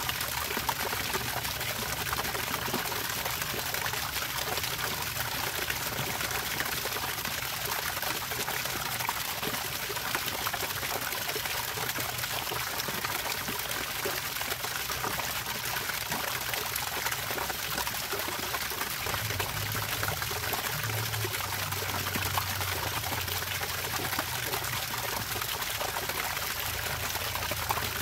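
Water trickling and pouring steadily, with a low hum underneath that grows a little stronger about two-thirds of the way through.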